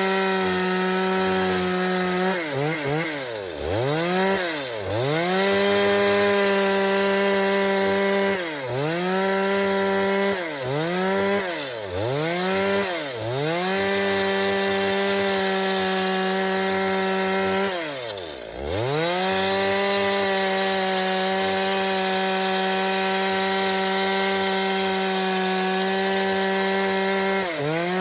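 Chainsaw engine running at high revs on wood, its pitch dropping sharply and climbing back about eight times, each dip lasting about a second.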